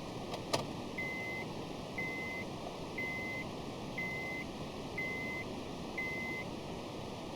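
A click, then a 2007 Honda Civic's warning chime beeping six times, about once a second, over a steady low background noise.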